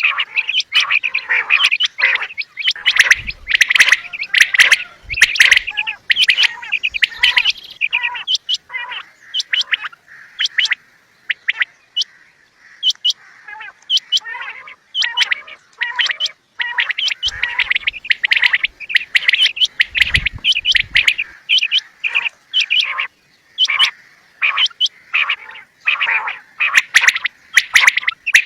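Quail calling over and over: quick runs of short, sharp calls, often overlapping, with a few brief pauses.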